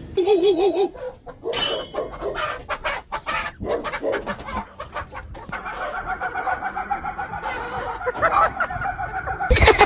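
A person imitating a chicken: a warbling cluck at the start, then a string of short, irregular clucks, then a long held crow-like call from about five and a half seconds in. A loud burst of sound breaks in right at the end.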